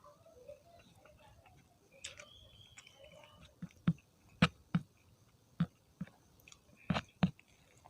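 A person chewing food close to the microphone. About halfway through, a run of about eight sharp, wet crunches and mouth clicks stands out, loudest near the end.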